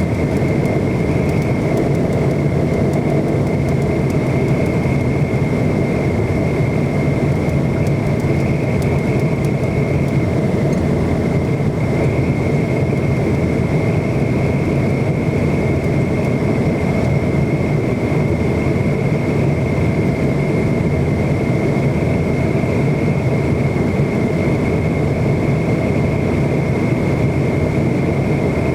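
Steady drone of a McDonnell Douglas MD-90's tail-mounted IAE V2500 jet engines heard inside the cabin: a broad low rumble with a constant high whine on top, unchanging throughout.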